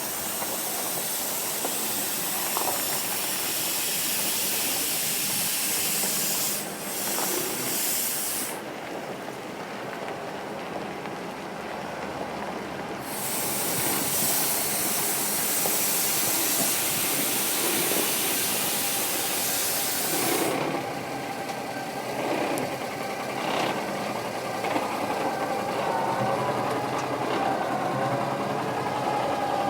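Kenworth T609 truck and dog tipper at work: a loud hiss that cuts in and out sharply several times over the truck's engine running.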